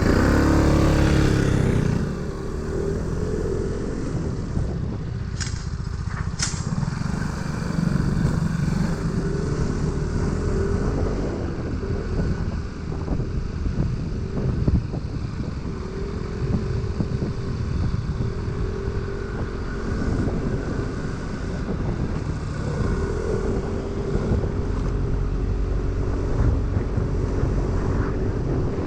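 Motor scooter engine running on the move, with wind noise over the microphone; the engine pitch rises and falls a few times. Two sharp clicks about five and six seconds in.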